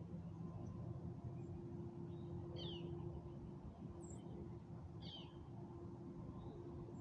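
Birds calling outdoors at dusk: two short chirps about two and a half seconds apart, with one faint high peep between them, over a low steady background rumble and a faint steady hum.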